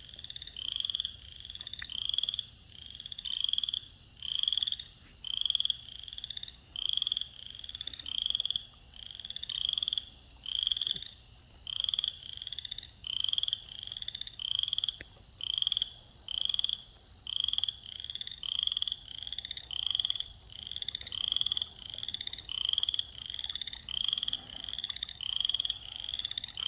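A chorus of frogs calling, one short rising call repeated about twice a second, over a steady high-pitched drone of katydids and cicadas. The insect drone stops briefly about eight seconds in.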